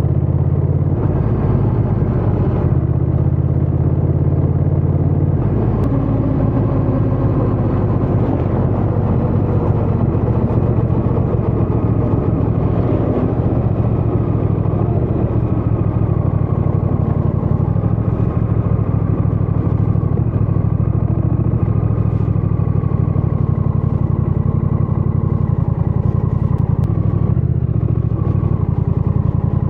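Honda Rebel 1100 DCT's parallel-twin engine and exhaust running steadily under way while riding. The engine note shifts about five seconds in and again near the end.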